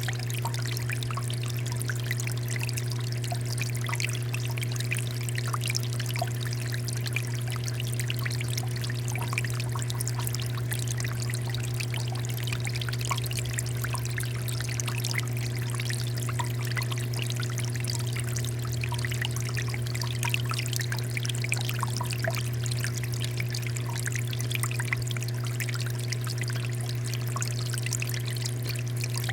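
Water fountain running: a steady flow of pouring and trickling water with small splashes, over a constant low hum.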